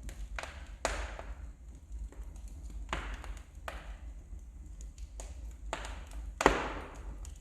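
Wood fire in a fireplace crackling, with sharp irregular pops and snaps, the loudest about six and a half seconds in.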